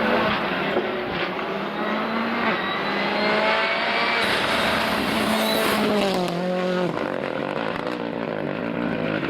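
Rally car engine at high revs on a stage: a steady drone with a climbing whine, then revs dipping and wavering about six to seven seconds in as it slows and changes gear.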